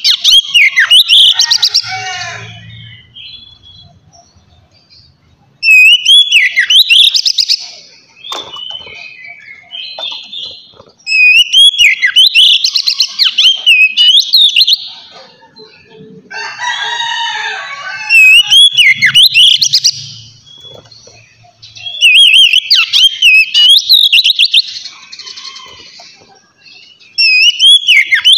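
Oriental magpie-robin (kacer) singing loud, clear whistled phrases with quick rising and falling notes, in repeated bursts a few seconds apart. About two-thirds of the way in comes a harsher, lower call.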